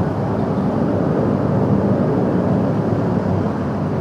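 Steady engine and road noise from a motorcycle underway.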